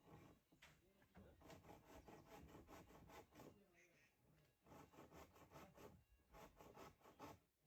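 Faint, distant voices talking, barely above near silence.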